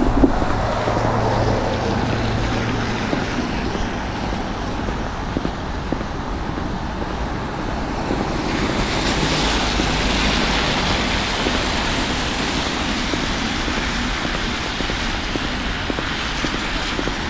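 Street traffic on a wet road in sleet, a steady wash of tyre and engine noise with wind buffeting the microphone; a louder hiss swells about halfway through.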